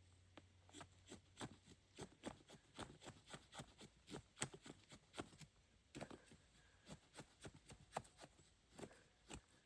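Faint, irregular sharp clicks and snaps, several a second, the loudest about four and a half seconds in.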